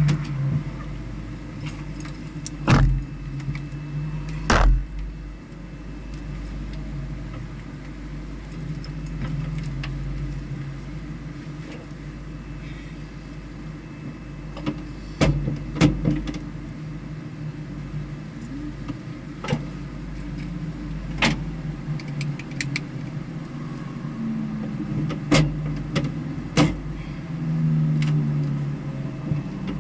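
Vehicle engine running at low, unsteady revs, with a low hum that wanders slightly in pitch. About nine sharp clicks or knocks come at irregular intervals, two of them close together about 15 to 16 seconds in.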